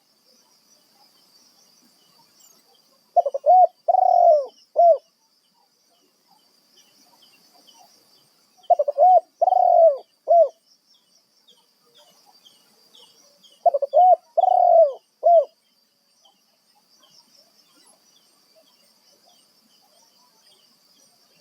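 Spotted dove (tekukur) cooing: three phrases of four or five quick notes each, spaced about five seconds apart, over a faint steady high buzz.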